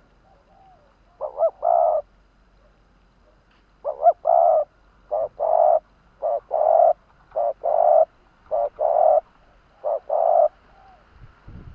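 Spotted dove cooing: seven repeated phrases, each a short note followed by a longer one, the first about a second in and the rest about one a second after a short pause. This is the song of a decoy dove used to call wild doves in.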